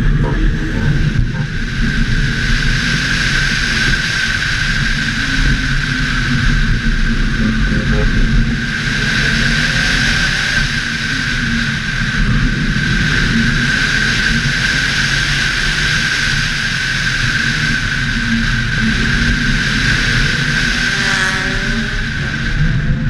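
Audi RS4 running hard at speed, engine and wind rush heard from a camera on the bonnet, with a steady high whine throughout. Near the end the engine note dips and climbs again.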